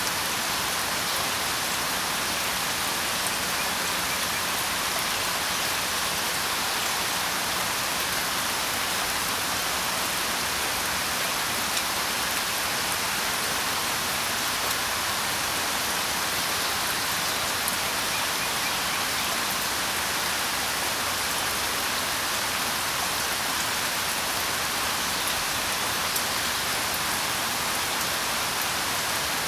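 Steady rain: a constant, even hiss with a few faint separate drop ticks now and then.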